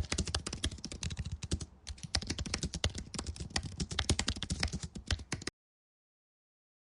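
Rapid typing on a computer keyboard, a fast run of keystrokes with a brief break about two seconds in, stopping abruptly about five and a half seconds in, followed by total silence.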